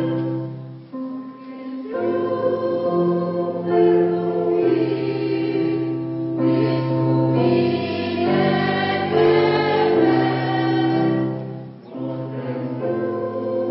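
Polyphonic choir singing in several parts at once, with held chords and short breaths between phrases about a second in and again near the end.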